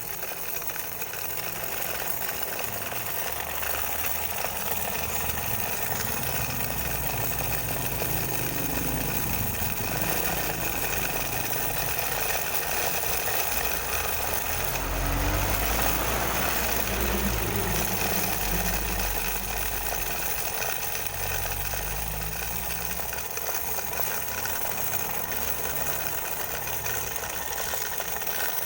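Homemade miniature engine sound maker, a small DC motor whirling a wire against a cut piece of drink can, rattling steadily in imitation of an idling diesel engine. The low end swells somewhat around the middle.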